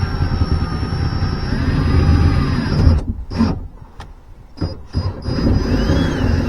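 Power drill running under load, its motor whine rising and falling in pitch, then stopping and starting in short bursts for a couple of seconds before running steadily again.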